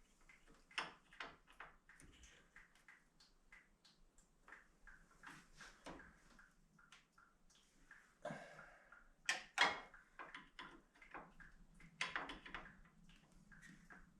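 Irregular clicks, knocks and metallic clanks of hand tools working on the car while the transmission lines are being freed, with a brief scrape a little past eight seconds in and louder clusters of knocks around nine to ten seconds and again near twelve seconds.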